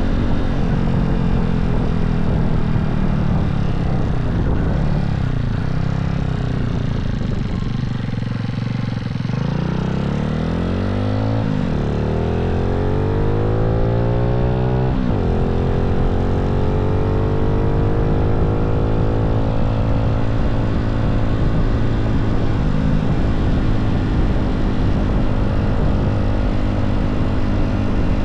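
Honda Z50 minibike's single-cylinder four-stroke engine, fitted with a 108cc stroker crank, running. Its pitch eases down at first, then climbs twice from about nine seconds in, dropping sharply each time, then holds steady at higher revs.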